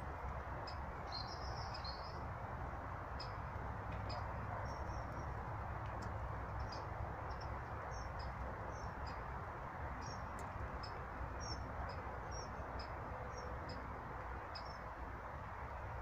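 Small birds giving short, high calls scattered all through, with a brief twittering phrase about a second in, over a steady rushing background noise.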